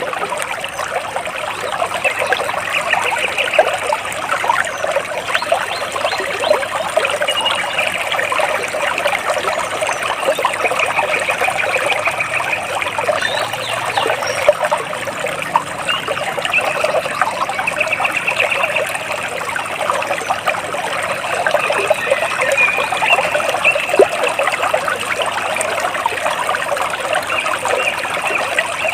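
Water splashing and trickling steadily, with short high bird trills breaking in every few seconds.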